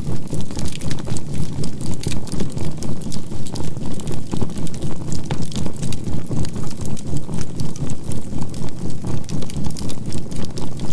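A steady 528 Hz tone over a low drone that pulses evenly about three to four times a second, a binaural-beat track, with the crackling and small pops of burning charcoal in a bonfire throughout.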